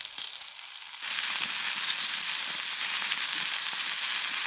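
Breakfast food frying in a pan with a steady crackly sizzle, which jumps louder about a second in.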